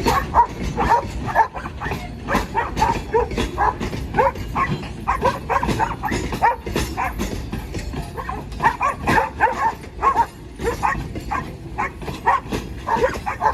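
Dog barking over and over in quick runs, several barks a second, over a low steady rumble.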